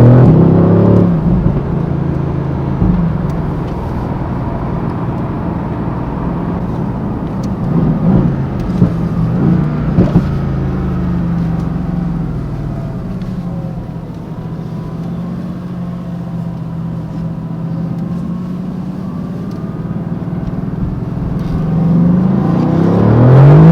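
Mercedes-AMG GT C Roadster's twin-turbo V8 on the move. It is loud under acceleration at the start, then settles to a steady cruise with a few short louder bursts about eight to ten seconds in. Near the end it climbs in pitch and loudness under hard acceleration.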